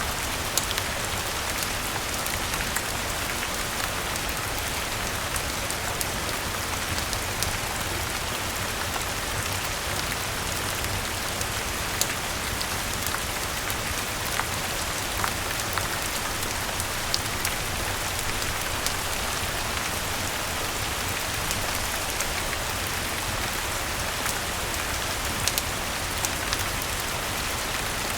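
Steady rain falling, an even hiss, with scattered sharp crackles from a wood fire popping at irregular intervals.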